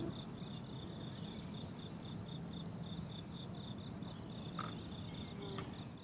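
Crickets chirping in a steady, rhythmic chorus on a summer meadow: high-pitched chirps repeating about four times a second, over a faint low background rumble.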